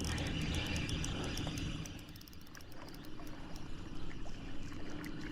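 Handling noise as a hooked fish is reeled in on a spinning rod and landed: a low rumble and rustle at first, then a run of small clicks and taps in the second half.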